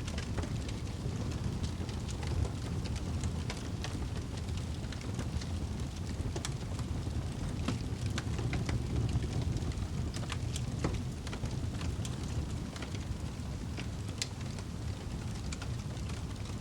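Wood fire in a fireplace, burning with a steady low rumble and irregular sharp crackles.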